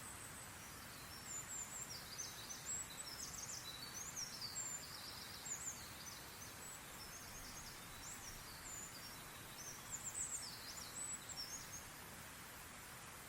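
Songbirds chirping and twittering in quick high-pitched notes over a steady outdoor hiss, starting about a second in and dying away near the end.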